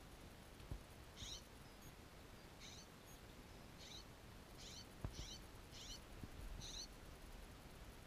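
A small bird calling faintly in short, high chirps, about seven of them, each a quick falling note, roughly a second apart, over near-silent river ambience. A single soft knock about five seconds in.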